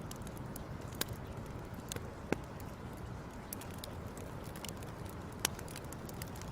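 Fire crackling: irregular sharp pops and snaps over a steady low rush, with louder pops about a second in, a little after two seconds and about five and a half seconds in.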